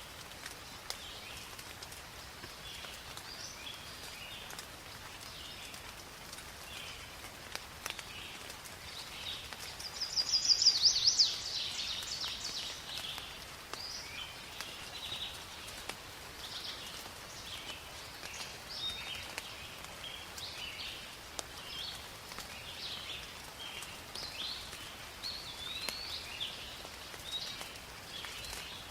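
Steady rain falling in a forest, with many birds chirping and calling throughout. About ten seconds in, one bird gives a loud, fast trill.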